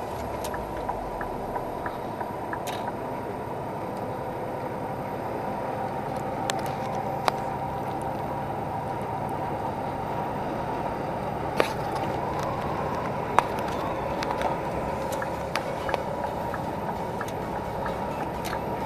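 Scania R450 truck's 13-litre inline-six diesel running steadily while driving, heard as a continuous drone with scattered sharp clicks and rattles throughout.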